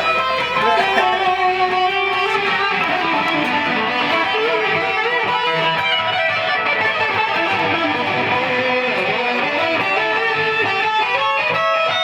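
Music played on electric guitar, with strummed chords throughout.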